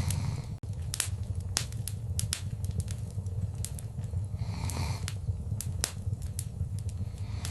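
Wood fire crackling, with sharp pops scattered irregularly over a steady low rumble of the flames. A brief soft hissing swell comes about halfway through.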